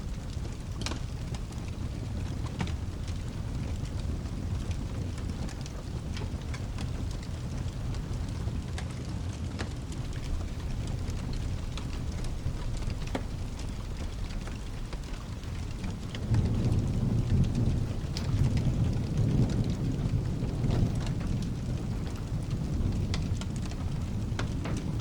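Steady rain with a low background rumble and scattered sharp crackles. About two-thirds of the way through, a deep rolling thunder rumble swells up and goes on until the end.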